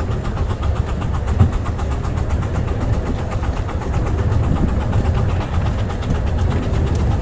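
Double-headed miniature-railway train running, heard from the front passenger car: a steady low rumble of wheels on track with rapid, even beats.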